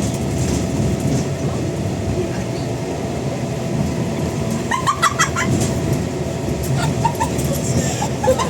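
Scania N94UD Omnidekka double-decker bus under way: a steady low engine and road rumble with a faint steady whine. About five seconds in there is a brief burst of high-pitched squeals, with a few more near the end.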